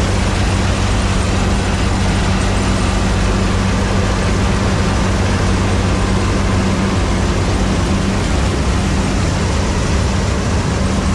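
Heavy farm machine's diesel engine running steadily at constant speed, a low even hum under a broad mechanical din.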